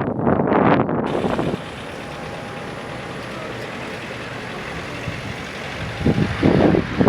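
Strong wind buffeting the microphone in gusts, giving way about a second in to a steadier, quieter mechanical hum with a faint high tone, before loud gusts return near the end.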